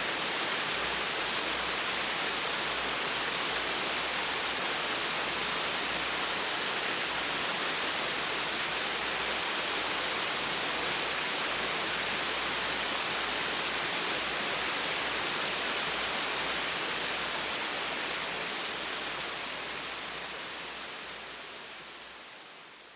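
Small waterfall splashing steadily in an even rush of water, fading out over the last few seconds.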